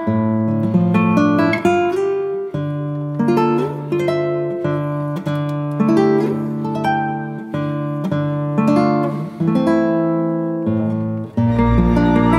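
Acoustic guitar music: single plucked notes and chords that ring and fade one after another. Near the end a steady, sustained low tone comes in under the notes.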